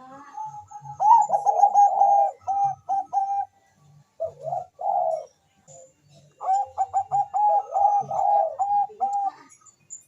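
Thai-strain zebra dove (perkutut bangkok) singing: two fast runs of short, clipped coos, with a few lone notes between them.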